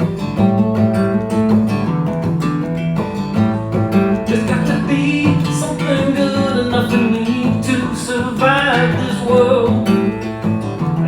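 Live music: a strummed acoustic guitar, joined about halfway through by a singing voice.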